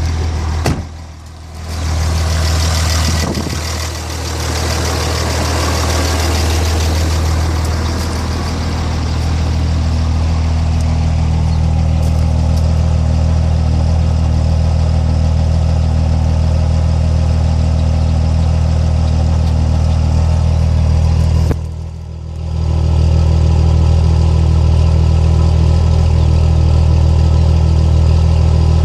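6.7-litre diesel truck engine idling, showing the rough idle the owner is concerned about. The sound dips briefly twice, about a second in and again about three quarters of the way through.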